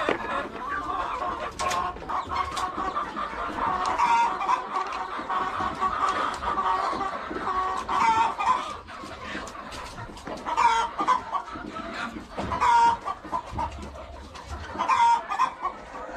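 A flock of chickens clucking continuously, many birds at once, with louder squawks about every couple of seconds.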